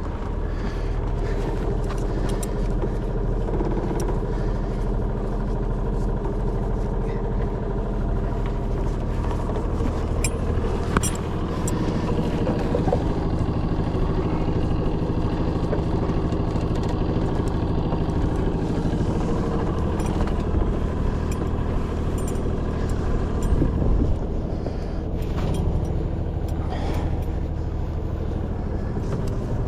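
A sailing yacht's engine running steadily at low revs, with a few light clicks and knocks over it.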